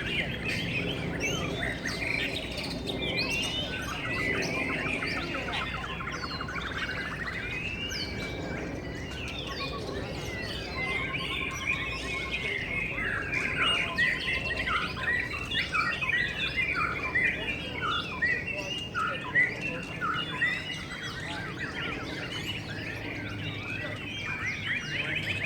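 Many caged white-rumped shamas singing at once in a contest, a dense overlapping chorus of whistled, gliding phrases and rapid trills.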